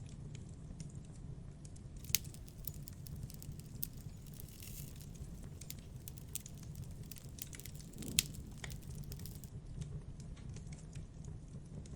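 Campfire burning, wood crackling with scattered small ticks over a low steady rumble, and two sharp loud pops, one about two seconds in and another about eight seconds in.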